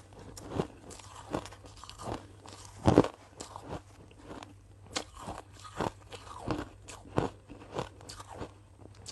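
A person biting and chewing hard ice cubes close to the microphone: sharp, irregular crunches, the loudest about three seconds in.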